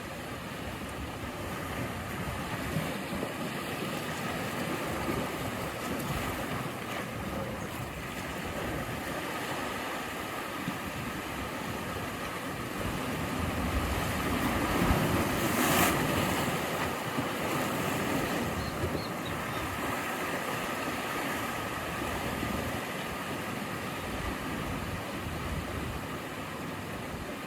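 Sea surf: waves breaking and washing in a continuous wash that swells to its loudest about halfway through, with wind buffeting the microphone.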